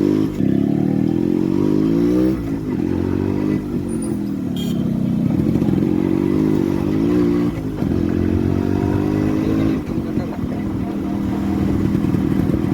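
Motorcycle engine accelerating through the gears: the engine note climbs, drops sharply at each gear change, and climbs again, about three times.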